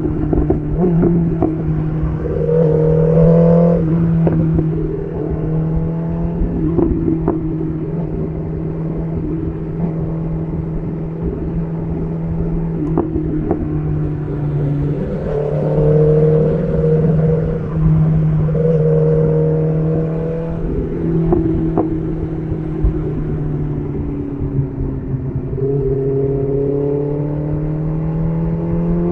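BMW S1000RR's inline-four engine running through an SC Project CR-T titanium exhaust while the bike is ridden, a steady low drone with higher tones rising and falling again and again as the revs go up and down.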